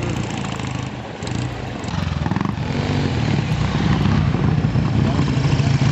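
Classic motorcycle engine running, fading briefly about a second in, then building up again and holding steady as bikes ride off.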